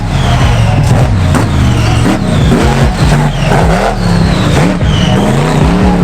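Monster truck engine revving hard over and over, its pitch climbing and dropping about once a second.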